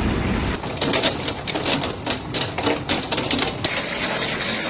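Hailstones striking a hard surface in a rapid, irregular clatter, giving way near the end to a steady hiss of wind-driven rain and hail.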